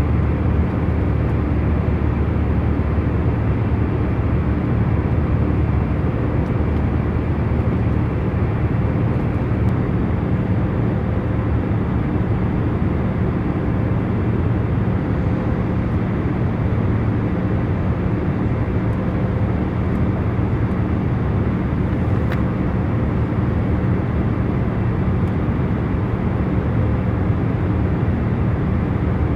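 Airliner cabin noise in cruising flight: a steady low rumble and hiss with faint constant hum tones, unchanging throughout.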